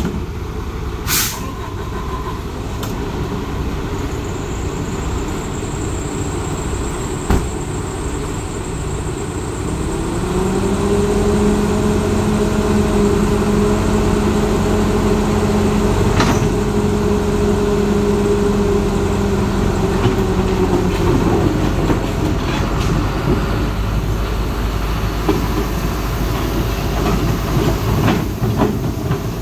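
Diesel engine of a John Deere 130G excavator running, revving up to a higher steady pitch about ten seconds in, holding there for about eleven seconds under load, then settling back, with a few knocks.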